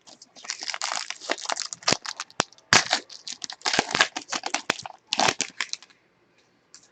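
Foil trading-card pack wrapper being torn open and crinkled: a run of crackles with a few sharp snaps that stops about six seconds in.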